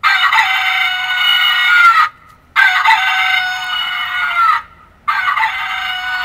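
Rooster crowing over and over as a wake-up call, one long crow about every two and a half seconds, each ending in a falling note.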